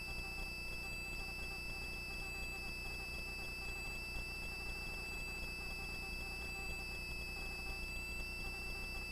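Steady low hum with a constant thin high-pitched whine from the helicopter's cabin intercom audio feed, with no rotor beat standing out.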